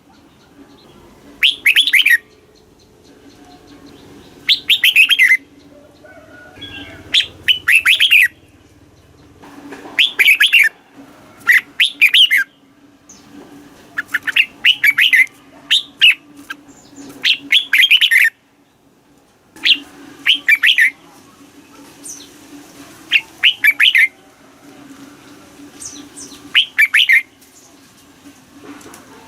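Red-whiskered bulbul singing loud, short warbling phrases, one every two to three seconds, over a faint steady low hum.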